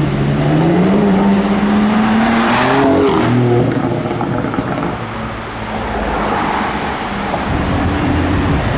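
BMW M4's twin-turbo straight-six accelerating away, its note rising steadily for about three seconds and then dropping. Lower engine and traffic noise follows.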